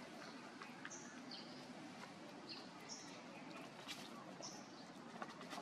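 A small bird repeating short high chirps, mostly in pairs, about every one and a half seconds, over faint outdoor ambience with a few soft clicks.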